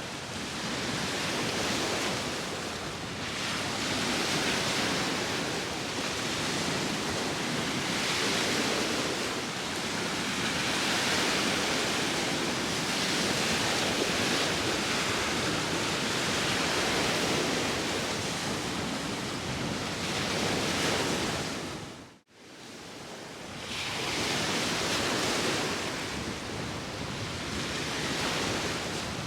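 Sea waves washing in and out, swelling and easing every few seconds, with wind over them. About three-quarters of the way through the sound drops out for a moment and fades back in.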